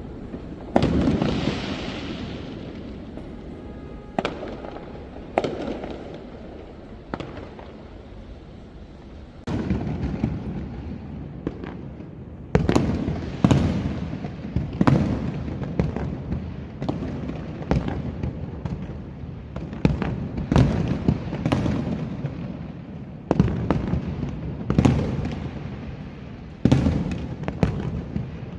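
Fireworks going off: a few scattered bangs in the first half, with a hissing burst near the start. Then comes a quick run of sharp bangs about once a second, each trailing off in a low rumble.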